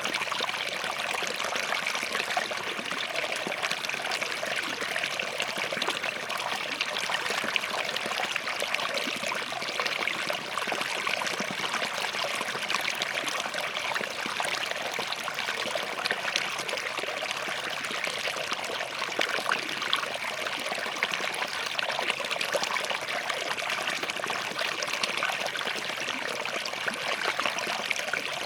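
A small forest stream flowing and trickling between rocks, a steady splashing babble with many small flecks of burbling water.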